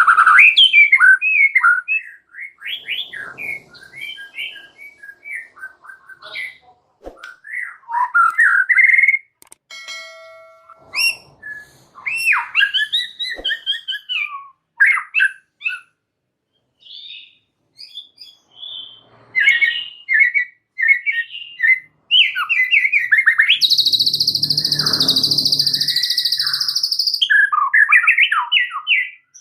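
White-rumped shama (murai batu) singing an energetic, varied song of quick whistled and chattering phrases broken by short pauses. About three-quarters through, a harsh buzzing rasp lasts a few seconds before the whistling resumes.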